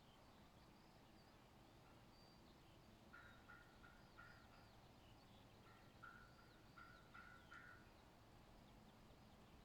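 Faint birdsong: scattered high chirps and whistles, with two bouts of a lower, stuttering repeated call, one about three seconds in and a longer one from about six seconds in.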